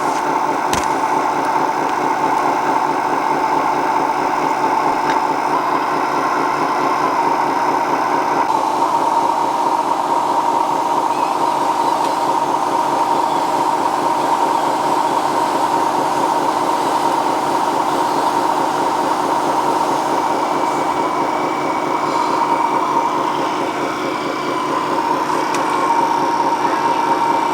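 Small electric motor and gears of a radio-controlled model vehicle whining steadily at a near-constant pitch, with a slight dip in level about three-quarters of the way through.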